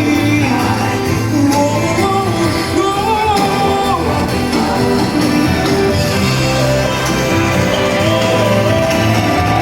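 Pop ballad sung live over its instrumental accompaniment, the voice holding and bending long notes between lyric lines.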